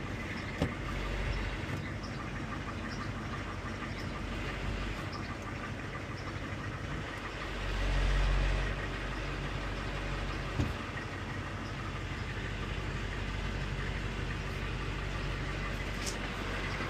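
6.5-litre turbo diesel V8 of a short bus running steadily, with a brief low surge about eight seconds in. There are two sharp clicks, one near the start and one about ten seconds in.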